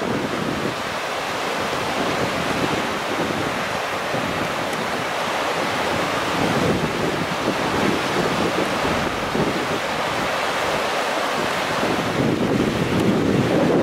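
Steady rushing of the Kizu River in typhoon flood, with wind buffeting the microphone in gusts.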